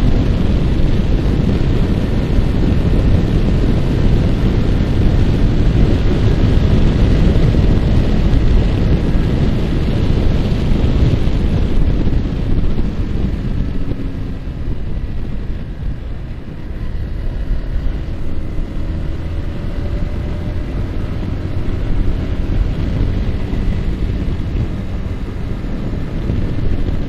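Wind rushing over the microphone of a moving Yamaha R15, with the bike's single-cylinder engine running underneath. The wind eases about halfway through, then a faint rising engine note comes through as the bike picks up speed again.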